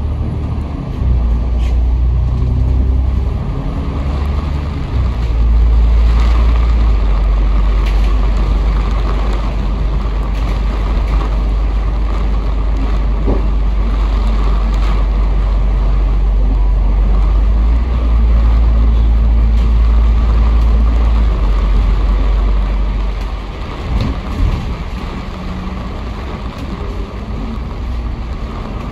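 Bus engine and road noise heard from on board while the bus is under way: a heavy low rumble with a steady engine note, easing off about 23 seconds in as the bus slows.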